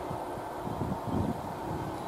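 Moving passenger train heard from inside the carriage: a steady running rumble and hiss, with a few stronger low thumps about a second in.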